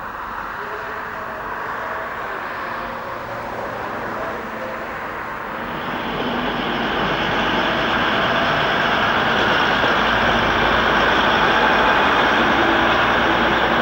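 Diesel train running through the station, a steady rumble that grows louder about six seconds in as it comes closer.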